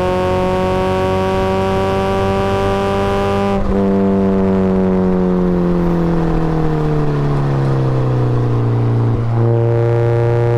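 Supercharged Mazda Miata's four-cylinder engine under load, its pitch slowly rising. About three and a half seconds in the throttle lifts and the revs fall for several seconds. A click comes about nine seconds in, then the engine pulls again at steady revs.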